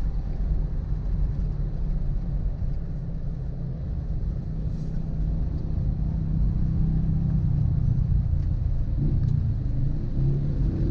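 Low rumble of a road vehicle on the move. The engine note climbs near the end as it picks up speed.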